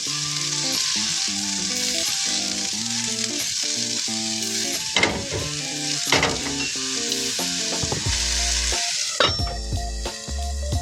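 Food sizzling as it fries in a pan, a steady hiss with two sharp clicks about five and six seconds in; the sizzling stops about nine seconds in.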